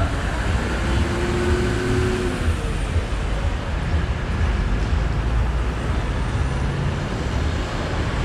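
Motorcycle riding along a road: steady engine and road noise with wind rumble, and a brief pitched tone, like a horn or engine note, about a second in.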